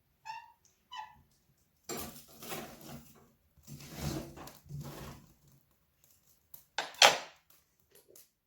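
Firewood being handled and loaded onto a fire, clattering and scraping for a few seconds, with one loud knock about seven seconds in. Two short squeaks come in the first second.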